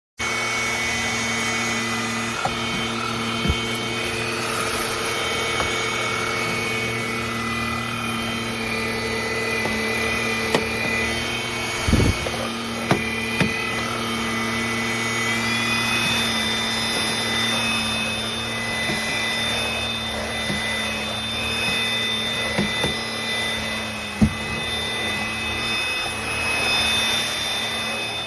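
Cordless stick vacuum cleaner running with a steady motor whine, a few sharp clicks along the way; about halfway through, the whine rises in pitch and stays higher.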